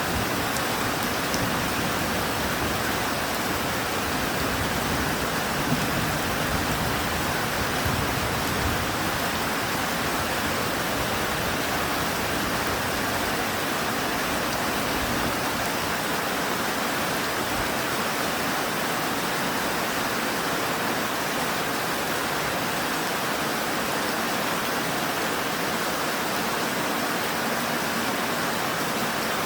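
Steady rain falling, an even, unbroken hiss that neither builds nor eases.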